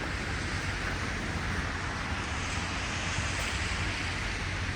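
Traffic on a rain-wet city street: a steady hiss of tyres on wet pavement over a low rumble, swelling a little around the middle as a vehicle passes.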